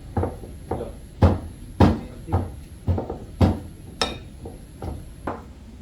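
Cooked cassava being pounded or mashed for a cake: a run of about ten knocks, roughly two a second, each with a dull thud underneath.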